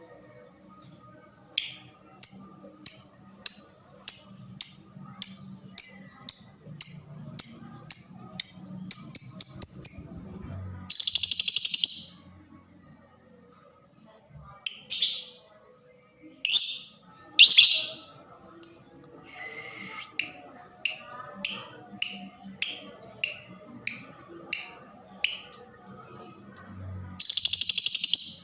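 Lovebird calling: runs of sharp, high chirps at about two a second, broken by a few longer, harsh buzzing calls, one about eleven seconds in and one near the end.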